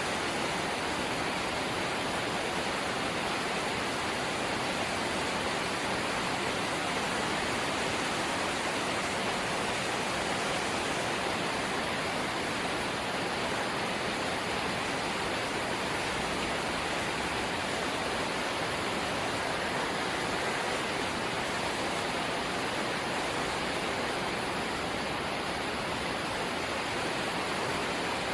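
Light rain falling steadily, an even hiss with no distinct drops or changes.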